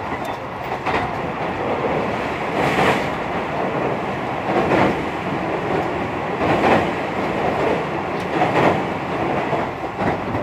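Tobu Railway electric train running at speed, heard from inside the passenger car: a steady rumble of wheels on rail with a louder clatter about every two seconds as the wheels pass over rail joints.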